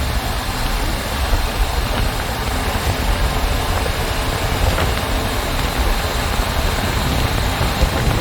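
Motorcycle on the move: a steady engine drone under constant wind and road noise.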